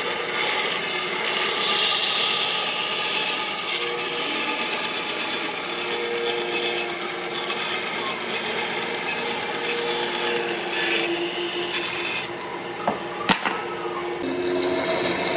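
Power tool working wood, a steady rasping hiss, with a couple of sharp knocks near the end.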